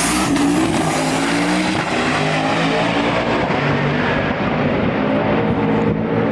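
Drag race cars running hard down the strip with manual gearboxes. The engine note climbs and drops back several times as the gears are changed.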